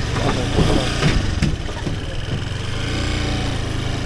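Motorcycle engine idling steadily, with a few short sounds over it in the first second and a half.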